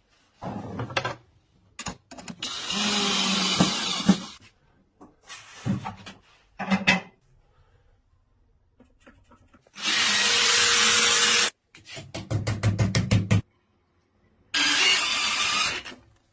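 Power drill running in several short bursts of one to two seconds each, with a stretch of rapid clicking about twelve seconds in.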